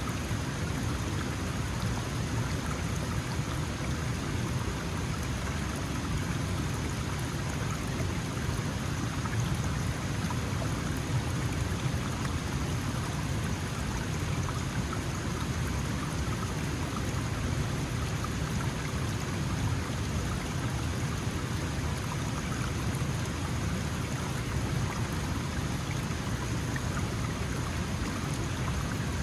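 Small mountain stream flowing, a steady, even rush of water.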